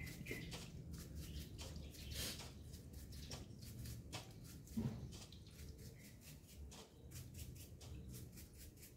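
Faint, irregular light clicks and taps, with one louder knock about five seconds in, over a low steady hum.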